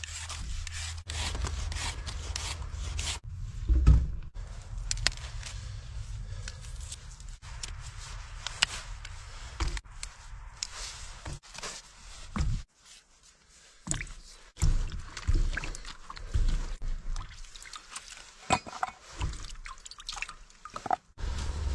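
Food being handled in and around water: dripping and small pours with scraping and rubbing sounds, in irregular spurts and clicks.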